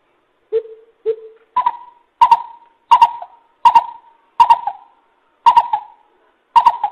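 Coucal calling: two lower hoots, then a run of about seven louder, higher hoots, evenly spaced roughly every 0.7 seconds.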